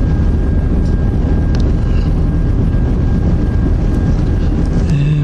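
Steady low rumble of a passenger train heard from on board, with a thin steady whine above it.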